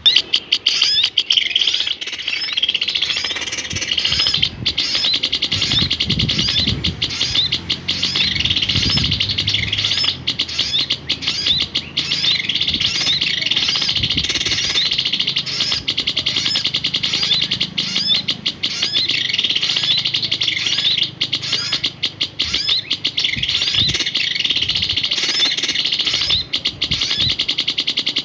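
A small songbird singing without pause in a fast stream of high chirps and trills.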